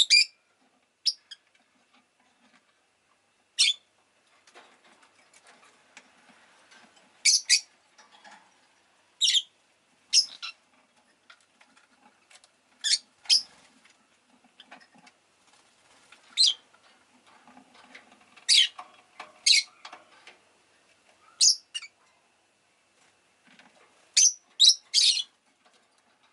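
Rosy-faced lovebird giving short, shrill chirps one after another at irregular intervals, some in quick pairs and a rapid run of three near the end.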